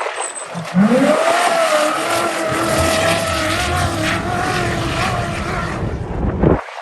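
Off-road race vehicle's engine revving up hard about a second in and held at high revs, its pitch wavering slightly, then cutting off suddenly near the end.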